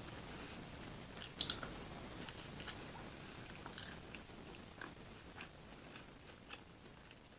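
A person eating close to the microphone: chewing with scattered small clicks, and a louder crunchy bite about a second and a half in.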